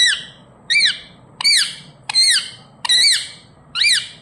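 Ringneck parrot (rose-ringed parakeet) giving a run of short, shrill squawks, six calls evenly spaced a little under a second apart, each a quick rise and fall in pitch.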